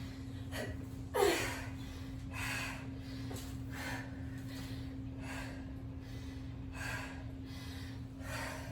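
A woman breathing hard from exertion during a high-intensity exercise set: heavy breaths about every one and a half seconds, with one loud gasping exhale about a second in.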